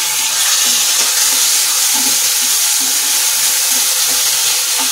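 Chopped tomatoes sizzling steadily in hot desi ghee in a non-stick kadhai, stirred with a wooden spatula that scuffs against the pan.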